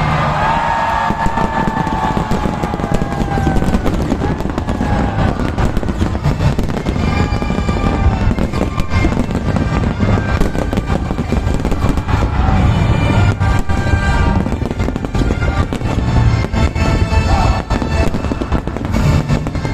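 Fireworks going off, a dense, continuous run of bangs and crackles, with music playing along with them.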